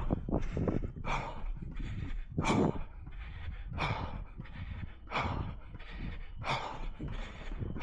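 A runner breathing hard in a steady rhythm while running: a strong, noisy breath about every second and a half, with weaker breaths in between.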